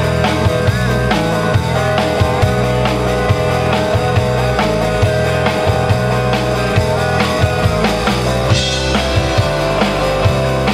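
Live rock band playing, with a drum kit keeping a steady beat under bass and guitar.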